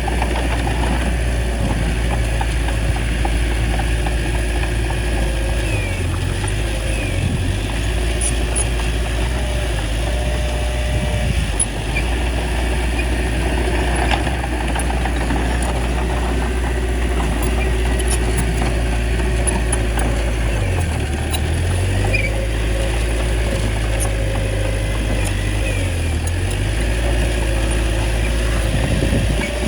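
Small crawler bulldozer's diesel engine running steadily under load while pushing soil, its low note dipping and recovering briefly a few times.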